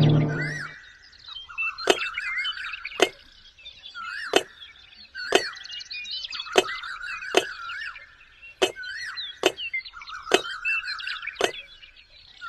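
Sharp knocks at about one a second, with quieter chirping, warbling calls in between.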